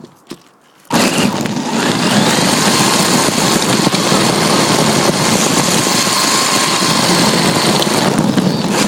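RC drift car driving, heard from a phone cable-tied to its bare chassis: a loud, steady rush of tyres and drivetrain with a faint motor whine, rising briefly as it gets going. It starts suddenly about a second in and cuts off just before the end.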